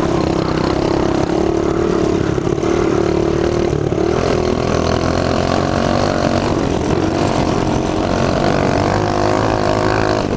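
Mini bike engine running steadily while the bike is ridden in gear, its pitch wavering a little near the end.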